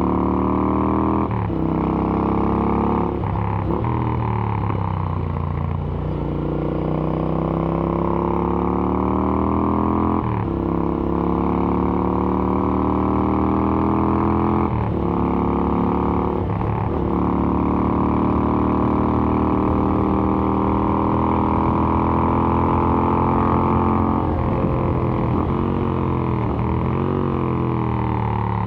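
Royal Enfield Interceptor 650's parallel-twin engine through AEW aftermarket exhausts, pulling hard on a ride. The pitch climbs under throttle and drops sharply at each gear change, several times over. Near the end the pitch dips and rises in quick succession as the throttle is rolled off and back on.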